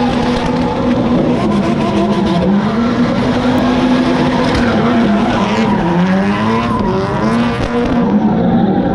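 A Lamborghini and a second car drifting and doing burnouts, their engines held high in the revs over continuous tyre squeal. The engine pitch stays mostly steady, dips and climbs again around the middle, and bounces up and down near the end as the throttle is worked.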